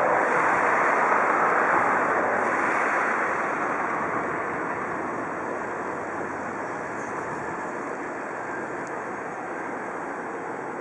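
InterCity train hauled by an electric locomotive rolling past, a steady rush of wheels on rails that eases off after about three seconds as the train draws away.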